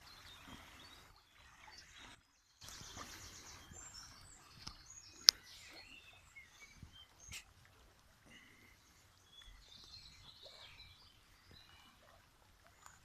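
Small birds chirping and calling over faint outdoor background noise, with one sharp click about five seconds in. The sound cuts out completely for a moment just after two seconds.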